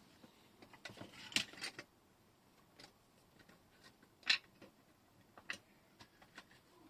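Scattered small clicks and taps of objects being picked up and set down on a table, with a cluster of quick clicks about a second in and single sharper knocks a little past four and at about five and a half seconds.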